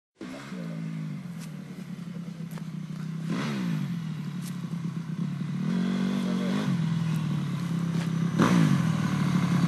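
Honda CRF250 dirt bike's single-cylinder four-stroke engine running, revved up and back down about four times, growing gradually louder.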